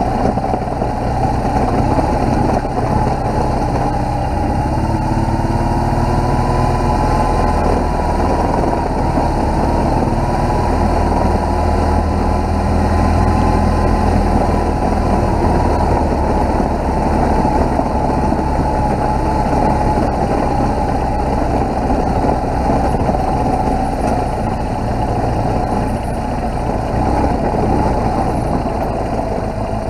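BMW R1200GS motorcycle's boxer-twin engine running steadily on the move, its pitch rising and falling gently with the throttle.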